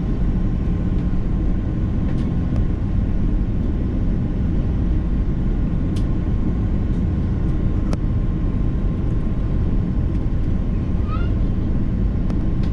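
Steady cabin rumble inside an Airbus A330-300 airliner, from its Rolls-Royce Trent 700 engines and the airflow around the fuselage, with a faint steady whine over it. A few light clicks come through the rumble.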